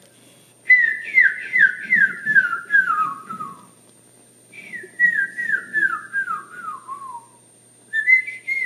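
A person whistling an imitation of a canyon wren's song: three runs of quick, clear notes, each cascading downward in pitch over about three seconds, the last run starting near the end.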